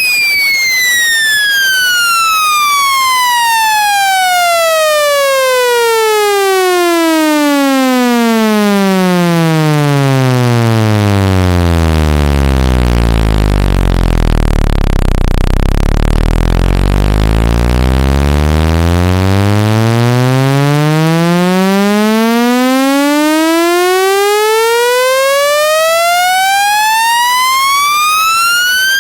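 Electronic speaker-cleaning test tone, a buzzy tone that sweeps steadily down in pitch to a deep bass hum over about twelve seconds, holds low for several seconds, then sweeps back up. It is played at full volume to vibrate water and dust out of a phone speaker.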